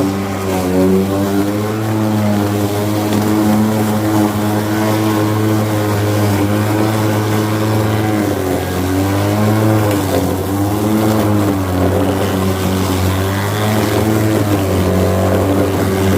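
Ryobi 36-volt cordless lawn mower running, its electric motor and spinning blade giving a steady pitched hum. The pitch dips and recovers a few times as the blade cuts into long, wet grass.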